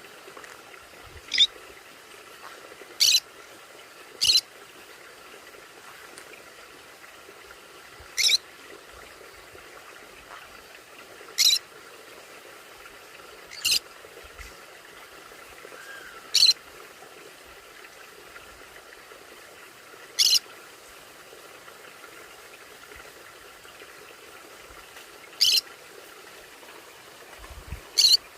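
Conure giving short, sharp, high-pitched single calls, about ten of them spaced irregularly a few seconds apart.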